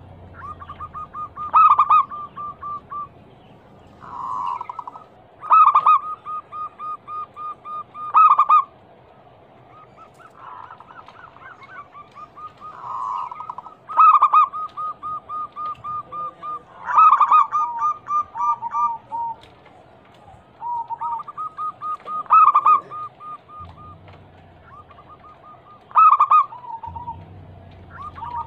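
Zebra doves (perkutut) cooing: about seven phrases of rapid staccato coos, roughly five to six notes a second, each phrase opening with a louder note, with a second bird's slightly lower coos overlapping at times. The calling of a female perkutut, used as a lure to make males answer.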